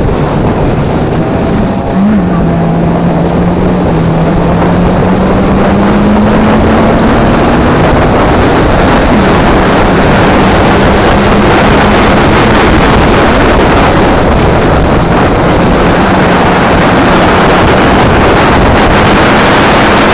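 Peugeot 106's naturally aspirated 1.6 16v four-cylinder engine running at speed on track, with wind noise over the microphone. The engine note drops about two seconds in, climbs slowly, drops again around nine seconds in, then holds steady.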